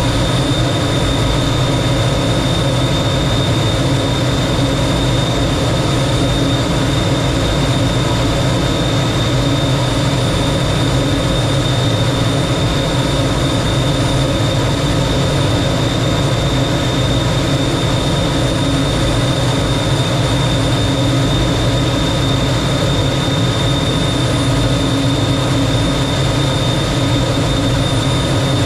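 Lockheed T-33 jet's Allison J33 turbojet engine running steadily, a constant rushing noise with a high, steady whine over it.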